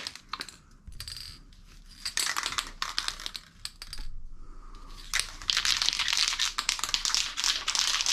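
Foam air filter soaked in air filter cleaner being squeezed and worked by hand, with wet crackling and squelching as the cleaner and old red filter oil work out of the foam. It comes in short bursts at first, then runs on continuously from about five seconds in.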